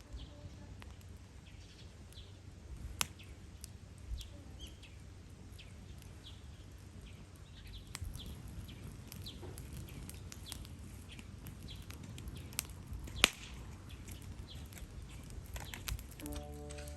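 Small birds chirping on and off over a low outdoor rumble, with a few sharp cracks, the loudest about thirteen seconds in. Music starts right at the end.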